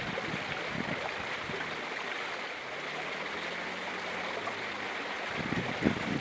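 Steady rush of river floodwater around a Jeep driving through it, with a faint low hum underneath in the middle.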